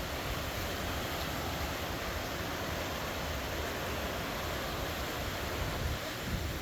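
Steady rushing of a river and waterfall: an even, unbroken water noise.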